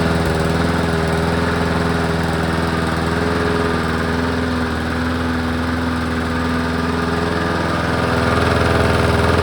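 Craftsman push mower's 5.5 hp Briggs & Stratton engine running at a steady speed, without hunting up and down, which the owner takes to mean the freshly cleaned carburettor has cured its surging.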